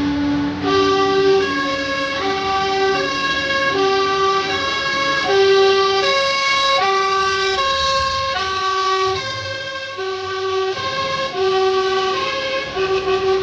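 A two-tone siren on a passing vehicle, sounding loudly and steadily with alternating high and low notes, each held for under a second.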